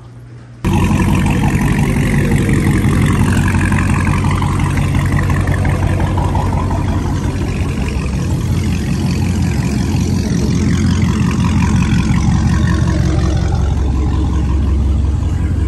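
Car engine running loud and steady with a deep, even exhaust drone. It cuts in abruptly about half a second in.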